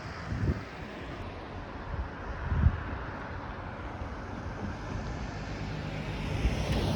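Wind buffeting the microphone: a steady rushing noise with low gusty thumps about half a second and two and a half seconds in, growing louder near the end.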